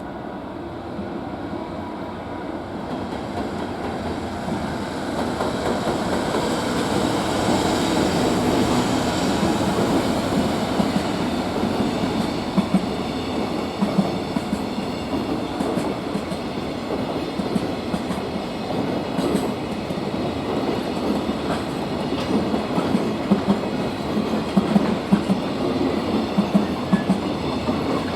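JR freight train rolling past, its noise building over the first several seconds as it nears, then a steady run of wagons with wheels clicking over rail joints.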